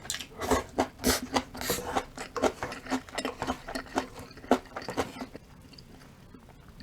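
A person chewing food, a quick run of short mouth clicks and crunches, several a second, that stops about five seconds in.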